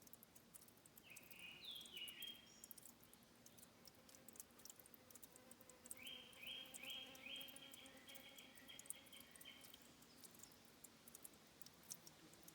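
A forest bird singing: a short phrase about a second in, then a run of about nine quick repeated high notes from about six to ten seconds in. Faint high ticking throughout, in a quiet headwater forest.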